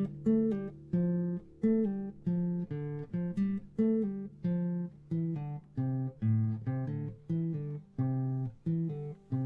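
Acoustic guitar played alone in an instrumental break, a steady run of plucked notes, each ringing and fading before the next.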